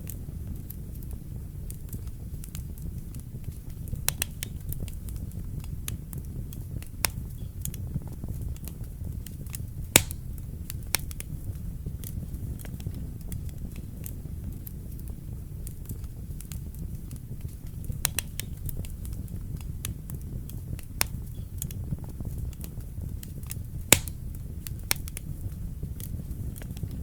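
Wood fire burning in a fireplace: a steady low rumble of flame with frequent crackles and pops from the burning logs, two sharper pops standing out about ten seconds in and near the end.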